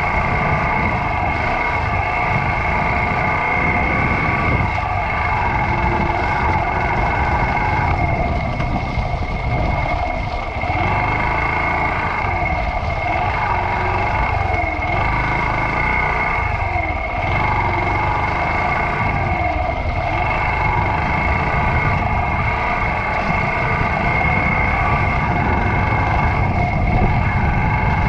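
A Yamaha YBR125 motorcycle's single-cylinder four-stroke engine running steadily, with a constant hum and rumble that barely changes pitch.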